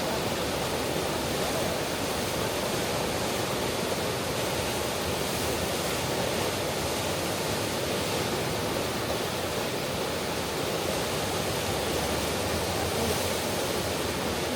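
A steady, even rushing noise that holds unchanged throughout, with no distinct events.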